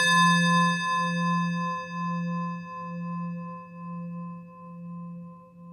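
A struck singing bowl ringing out, its high overtones fading over a few seconds while a low tone keeps pulsing in a slow, steady wobble, about once a second. A steady low drone lies underneath.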